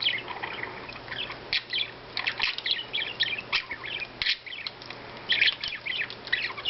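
Pet budgerigars chirping and chattering, a rapid run of short high chirps throughout.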